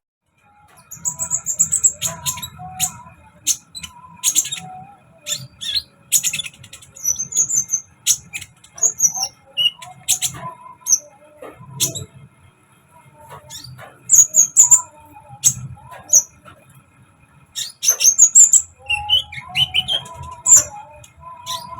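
Konin songbird singing in bursts of very high, rapid chirps and trills with short pauses between phrases, over a low rumble.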